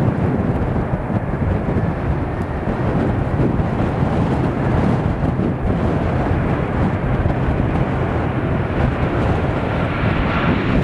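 Steady roar of a jet airliner's engines, a dense, even rushing noise with no clear pitch.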